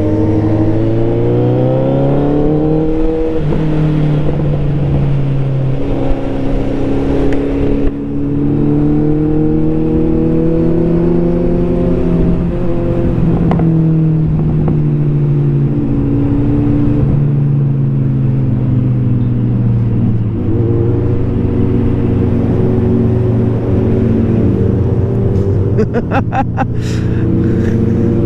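Motorcycle engine under way, its pitch climbing over the first few seconds, dropping at gear changes, then cruising with small rises and falls. A quick run of sharp clicks comes near the end.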